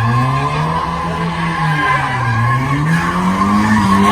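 Drift car on track, its engine revving up and down as it slides, with the tyres skidding. The engine note dips twice, near the start and about halfway through, and climbs again toward the end.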